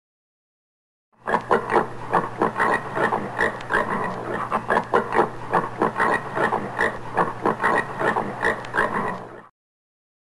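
Common warthog grunting in a rapid series, about three or four grunts a second, with a steady low hum beneath. It begins about a second in and cuts off suddenly shortly before the end.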